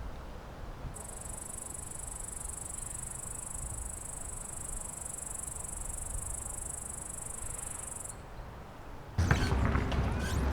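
Steady high-pitched insect chirring that starts about a second in and stops after about seven seconds. Near the end, louder outdoor noise with voices cuts in abruptly.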